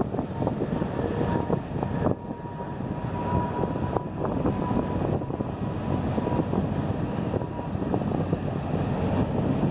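CN train passing: a steady rumble with the clatter and knocking of wheels on rail. A thin steady squeal runs through it from about a second in until near the end.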